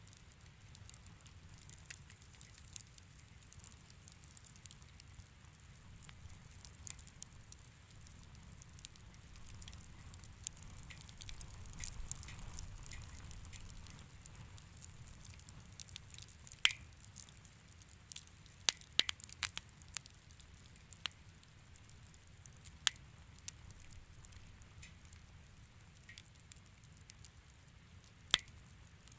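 Wood fire crackling in a fireplace: irregular sharp pops and snaps over a soft low rumble of the flames, with the loudest pops bunched in the second half.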